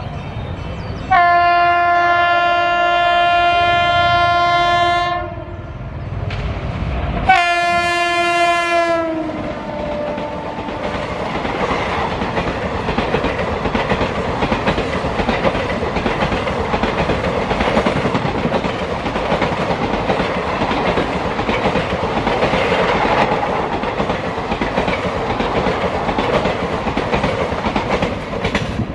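Indian electric locomotive's air horn sounds two blasts, a long one of about four seconds and then a shorter one that drops in pitch at its end as the locomotive passes. Then a train of passenger coaches runs past at speed, a steady noise of wheels on rail.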